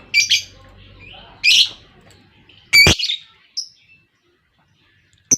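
Lovebirds giving a few short, shrill chirping calls in the first three seconds, with a sharp click among them near three seconds. The calls die away about four seconds in, and another sharp click comes near the end.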